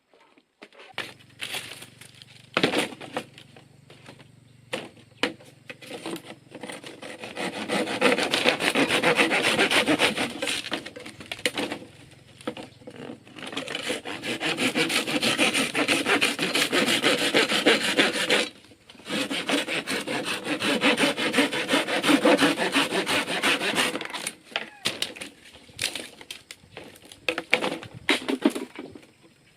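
Saw cutting through wood in three long spells of rapid strokes. Scattered knocks and clicks come between and around them.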